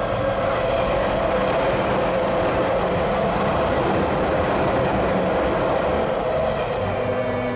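Electric commuter train running past on the rails, a steady rush of wheel and rail noise with a constant mid-pitched hum. It eases slightly near the end as music comes in.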